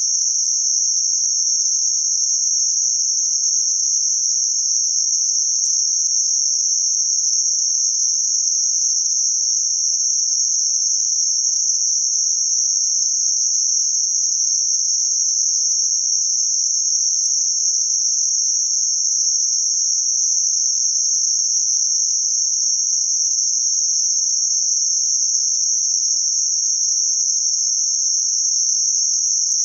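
Synthetic narrow-band noise centred around 6 kHz: a steady, high hiss with no change.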